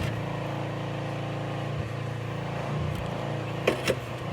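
A steady low mechanical hum, like a motor or engine running, with two brief sharper sounds a little before the end.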